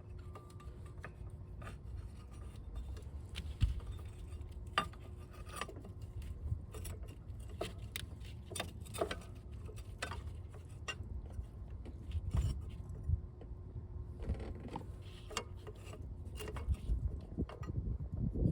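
Irregular light clicks, taps and scrapes of tools and engine parts being handled during reassembly, with a few louder knocks. A faint steady hum stops about fourteen seconds in.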